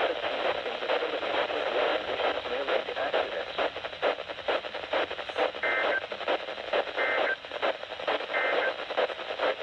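Three short bursts of two-tone digital data about a second and a half apart, in the second half: the Emergency Alert System end-of-message signal. They come over a radio's steady static and hiss.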